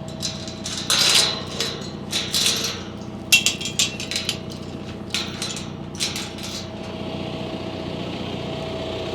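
John Deere tractor engine idling steadily, with a run of sharp knocks and rattles over the first six seconds or so.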